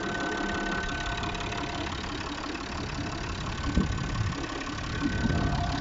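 Peugeot 2.7 HDi V6 diesel engine (DT17TED4) idling steadily, with a faint whine held throughout and one short louder knock a little before the middle.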